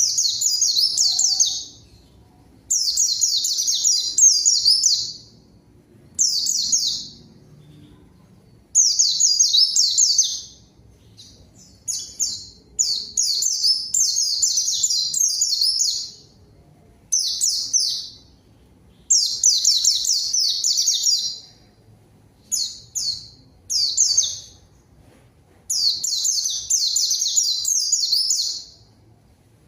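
White-eye (pleci) singing in rapid, high-pitched twittering phrases of one to two and a half seconds, about a dozen of them with short pauses between.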